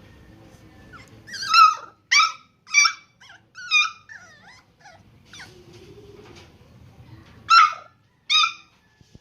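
Cheagle puppy giving high-pitched yips and short barks: a quick run of five or six, a pause, then two more near the end.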